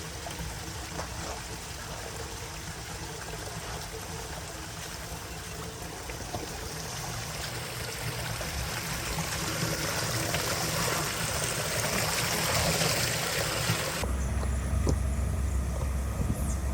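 Water running in a steady stream, growing louder. About fourteen seconds in it cuts abruptly to a steady low rumble.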